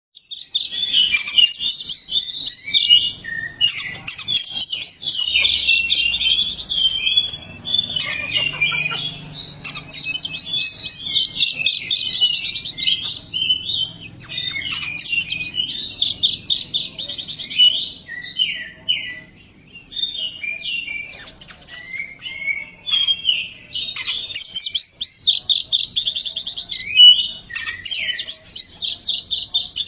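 Oriental magpie-robin (kacer) singing continuously: a fast, varied stream of high chirps, trills and whistles, with a short lull about two-thirds of the way through.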